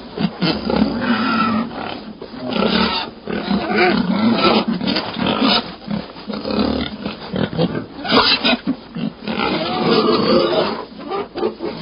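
A run of loud animal calls, one after another with short breaks between them.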